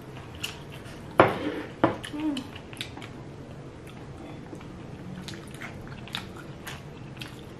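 Chewing and wet mouth sounds of dumplings being eaten, with small clicks of chopsticks and dishes. Two sharp knocks about a second in and a brief hummed "mm" just after.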